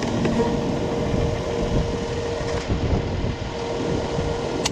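Diesel fuel pump running with a steady hum as fuel is pumped into a tractor's tank, wind buffeting the microphone, and a sharp click near the end.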